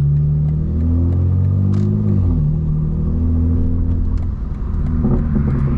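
Straight-piped BMW M4 Competition's twin-turbo inline-six exhaust running at a steady low pitch while driving, the note dipping briefly about two seconds in.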